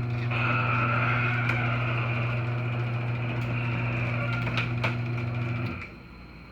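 LiftMaster Security 1/2 hp chain-drive garage door opener running, its motor humming steadily with the chain and trolley rattling and a few clicks, as it raises the door. The motor stops about six seconds in as the door reaches the open position.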